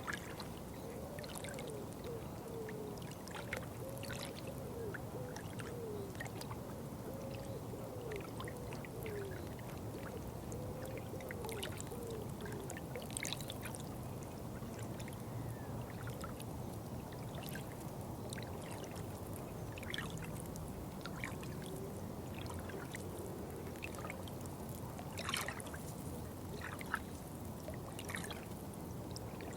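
Water trickling and pouring steadily, with scattered small drips and splashes and some gurgling in the first half.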